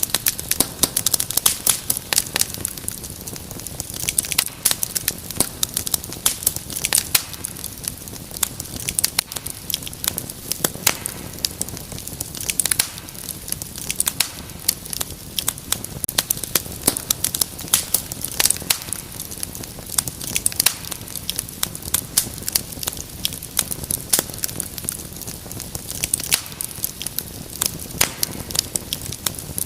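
Wood fire crackling in a fireplace: a steady hiss with dense, irregular sharp pops and snaps.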